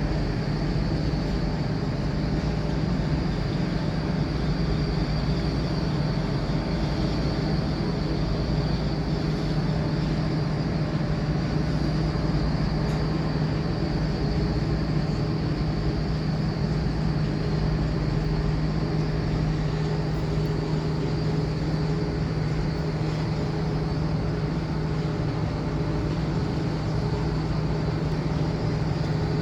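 Steady mechanical drone with a low, even hum, unchanging throughout.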